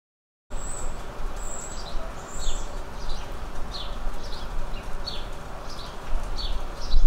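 A bird calling in a series of short falling chirps, about two a second, over a steady background hiss and low rumble. The sound cuts in about half a second in, after silence.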